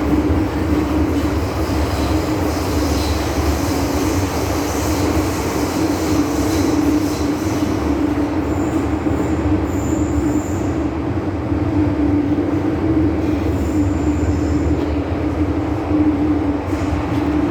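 MTR M-Train metro train running at speed, a steady hum over rail noise, with a couple of brief high-pitched wheel squeals in the middle.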